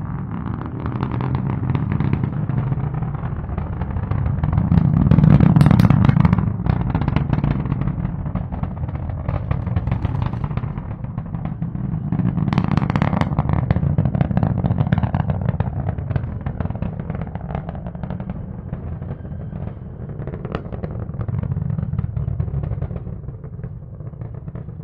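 Falcon 9 first stage climbing under its Merlin engines: a low, continuous rumbling roar laced with crackle. It swells louder around five seconds in and again around thirteen seconds.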